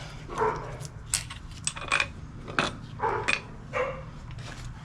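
Metal strut parts clinking and knocking as they are handled, a handful of sharp clinks. A dog makes a few short vocal sounds in between.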